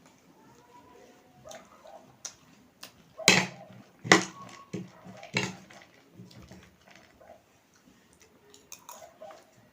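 Close-up eating sounds of spicy chatpate made with dry instant noodles: chewing and crunching with sharp clicks. The three loudest come a little after three, four and five seconds in.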